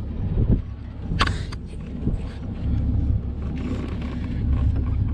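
Low, uneven rumble of wind buffeting the microphone, with knocks and scuffs of someone climbing up onto a large tractor; the sharpest knock comes about a second in.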